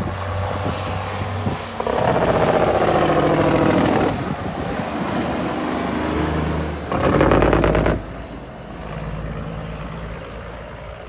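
Kenworth W900 semi truck's diesel engine running, revved hard for about two seconds, then again briefly about seven seconds in, easing back between and after.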